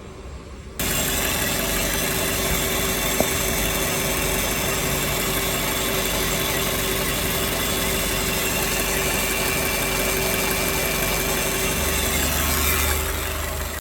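Volkswagen Polo engine running steadily at idle, heard close up, with steady whining tones over the engine noise. It comes in abruptly about a second in. It is presented as the car's extraneous noise found at 253,280 km.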